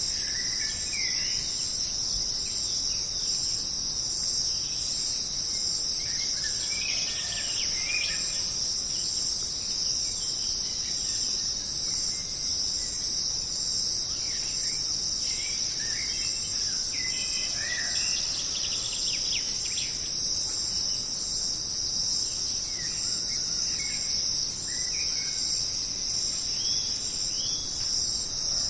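Jungle ambience: a steady, high-pitched chorus of insects, with many short bird chirps and calls scattered over it.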